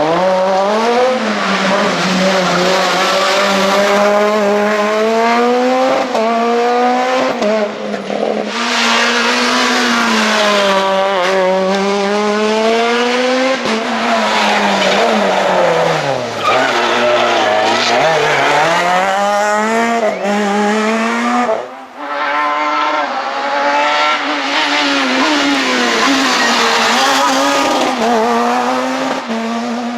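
Super 2000 rally car's naturally aspirated four-cylinder engine at full stage pace, the revs climbing and dropping again and again through gear changes and lifts for corners. The engine note drops out briefly about 22 seconds in, then picks up again.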